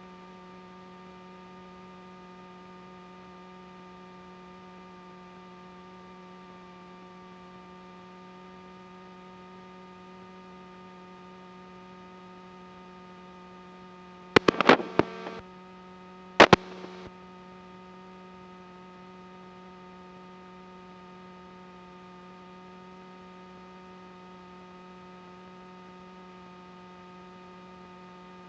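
Steady hum of the Cessna 310's twin engines in flight, holding an even pitch throughout. About halfway through, two short loud clicking bursts about two seconds apart cut in.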